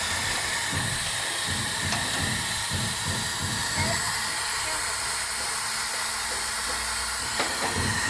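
Steady hiss of air from a CNC plasma cutting machine, with irregular soft low knocks underneath.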